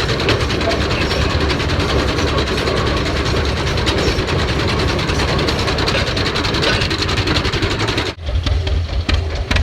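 Old engine-driven machinery running with a rapid, steady clatter. About eight seconds in it cuts off abruptly and a deeper engine rumble takes over.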